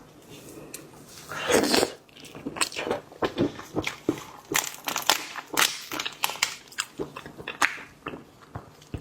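Close-miked eating of a large piece of sea cucumber: one longer, louder mouth sound about a second and a half in, then chewing with many short wet clicks.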